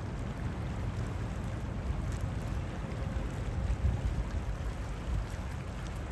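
Wind buffeting the microphone: a low, irregular rumble that rises and falls.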